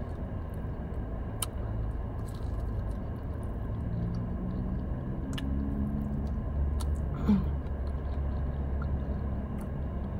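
Chewing and biting into chicken wings, with scattered small clicks and smacks, over a low steady rumble inside a car.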